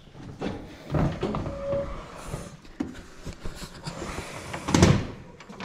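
Irregular knocks and clunks of handling things while filling the excavator's engine with oil, with the loudest clunk near the end.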